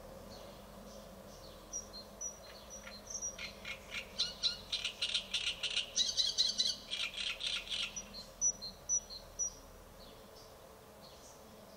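An unidentified bird calling: a few short, high single notes, then a fast run of rapid repeated notes, about six a second, for some four seconds in the middle, followed by more scattered high notes.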